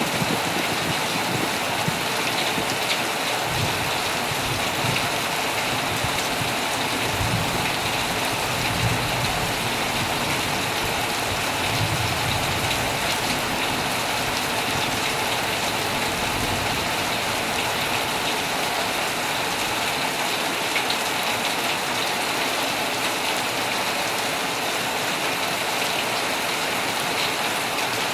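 Heavy rain drumming steadily on a tent, with a faint low rumble underneath from about three seconds in until about seventeen seconds.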